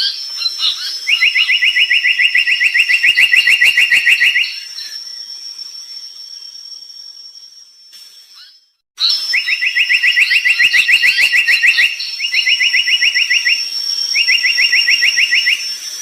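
Brown tali pocong bird singing: fast, buzzy trills of rapidly repeated notes, one long phrase early on and three more after a short pause, with a thin steady high whine behind them.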